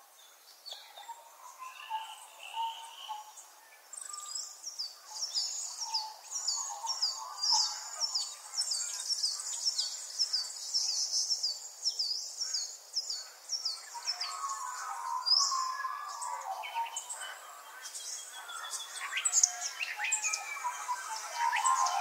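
Songbirds chirping and singing together. A few seconds in, one bird starts a fast, even run of high falling notes lasting about ten seconds, and lower twittering from other birds takes over in the second half.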